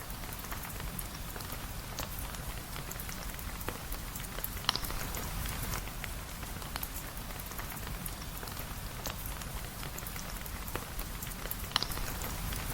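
Steady rain falling, an even hiss with many scattered sharp drop ticks; two louder snaps stand out, one about a third of the way in and one near the end.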